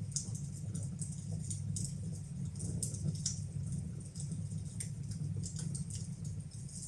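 Fire burning in a fireplace, crackling with frequent small, irregular pops over a steady low rumble of the flames.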